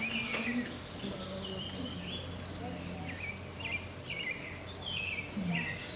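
Birds chirping in a run of short, repeated calls, over a faint steady low hum.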